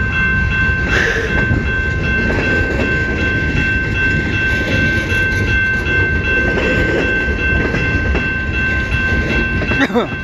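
CN freight train's cars rolling past, a steady loud rumble with a steady high-pitched whine over it and a sharp knock near the end.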